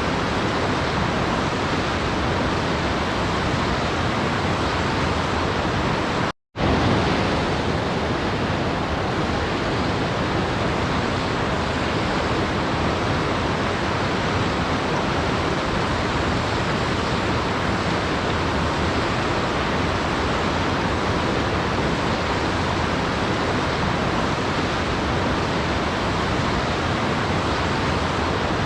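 Steady, even rush of waterfall noise used as a sleep soundscape, cutting out to silence for a split second about six and a half seconds in, then resuming unchanged.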